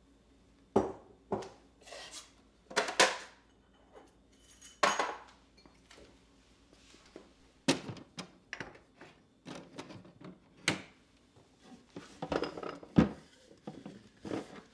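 Household objects being handled and set down on hard surfaces: irregular clinks, knocks and clatters, about a dozen, some sharp and some longer scrapes.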